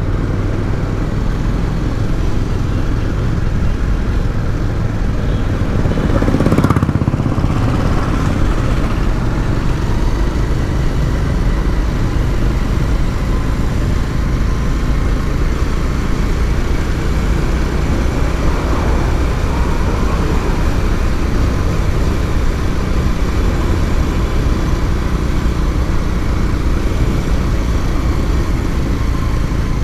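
A motorcycle riding through traffic: a steady, loud rumble of engine and road noise, with a louder swell about six to seven seconds in, like another vehicle going by.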